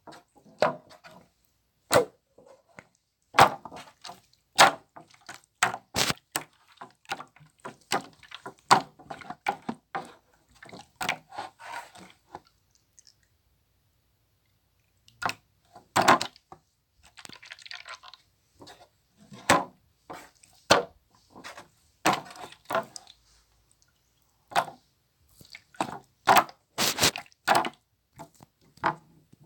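Slime being squeezed, folded and pressed by hand, giving irregular sharp popping and clicking noises. The noises stop for a few seconds about halfway through, then start again.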